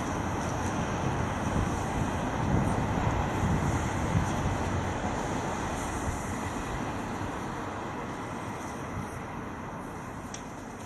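Wind rushing over the microphone with road noise as a bicycle is ridden, a steady noise that grows gradually quieter over the last few seconds.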